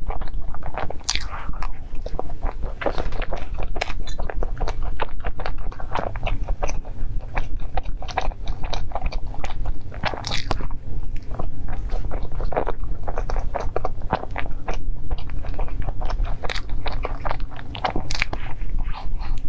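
Close-miked biting and chewing of choux cream puffs: a dense run of many small crackles and wet mouth clicks from the pastry shell and filling.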